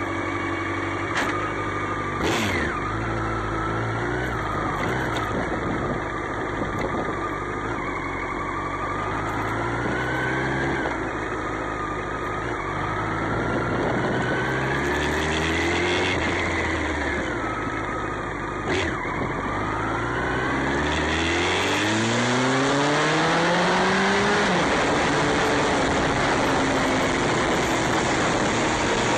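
Motorcycle engine accelerating through the gears, its pitch climbing and then dropping back at each shift. A steady rushing noise swells about two-thirds of the way through.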